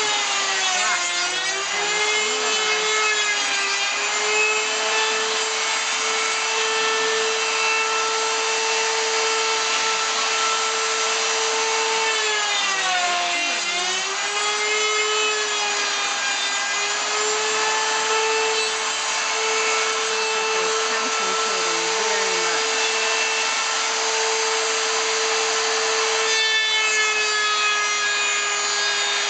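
Electric power saw running and cutting wood. Its motor's pitch dips under load about a second in and again around 13 seconds in, then climbs back to a steady speed.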